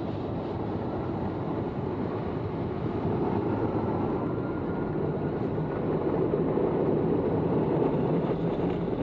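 Automatic car wash machinery running, a steady rushing noise that grows a little louder about three seconds in.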